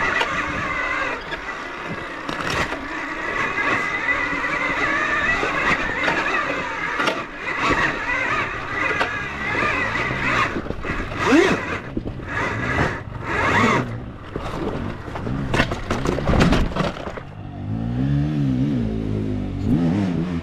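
Dirt bike engine revving hard and steadily for about ten seconds, then in short on-off throttle bursts as the bike struggles for grip on a steep, rocky climb; it drops to a lower, wavering sound near the end.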